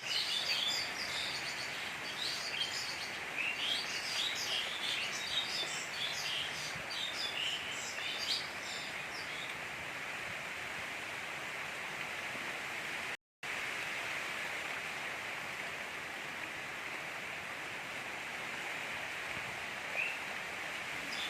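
Steady gentle rain falling, with birds chirping over it for roughly the first nine seconds and once more near the end. The sound cuts out completely for a moment about thirteen seconds in.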